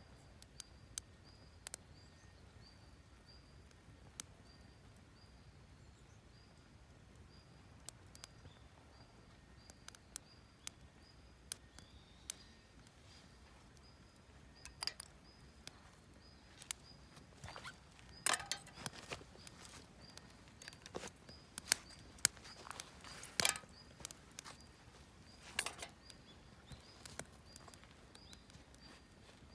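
Campfire of wood offcuts and firewood crackling, with sharp pops that are sparse at first and come more often and louder from about halfway through as the fire catches.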